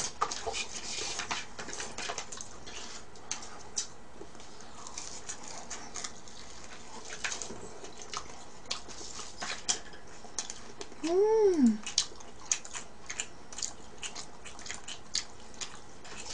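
Close-up chewing and crunching of cheese-powdered fried chicken, a steady run of small crisp crunches and mouth clicks. About eleven seconds in, a short hum rises and falls.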